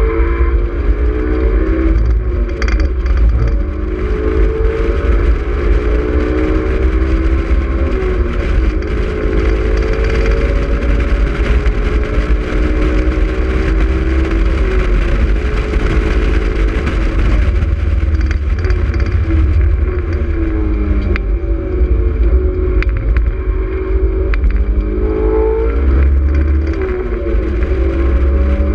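Honda S2000's inline-four engine pulling hard at speed, its pitch climbing and falling several times as the revs rise and drop, over a heavy low rumble of wind and road noise in the open-top cockpit.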